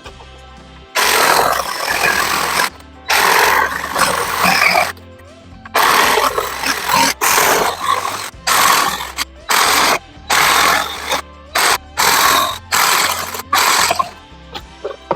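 Jigsaw cutting a wooden board in a string of short runs, the saw starting and stopping a dozen or so times, with the runs getting shorter toward the end, as when cutting out notches. Background music plays underneath.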